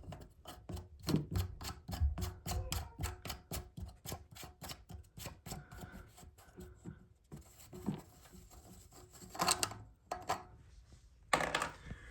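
Rapid series of sharp clicks, about four or five a second, for roughly seven seconds, then two short rushing bursts near the end.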